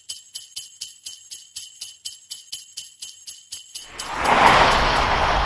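Sleigh bells jingling in a steady shaken rhythm, about three shakes a second, stopping nearly four seconds in. A loud, even hiss with a low rumble follows.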